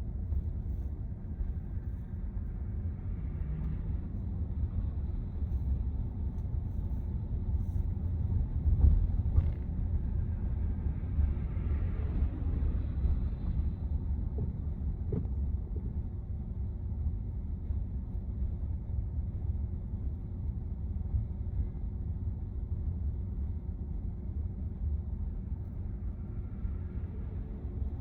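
Road and tyre rumble inside the cabin of a moving Tesla Model Y, a steady low drone with a brief louder bump about nine seconds in.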